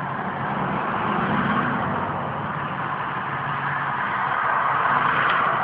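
Engine and road noise heard from inside a moving vehicle: a steady rumble with tyre and wind hiss.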